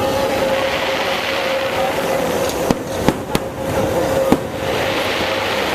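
Fireworks display: a continuous crackling hiss of bursting shells, with four sharp bangs in quick succession around the middle.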